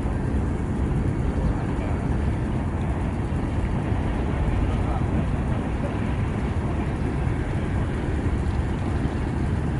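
Freight train rolling past, a steady rumbling noise from the cars on the rails with no horn or distinct clacks.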